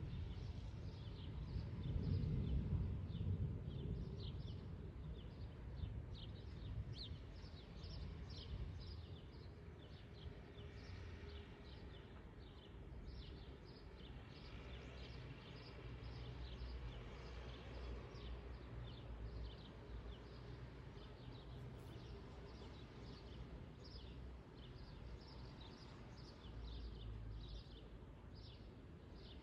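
Small birds chirping over and over in many short, high notes, above a low, steady rumble.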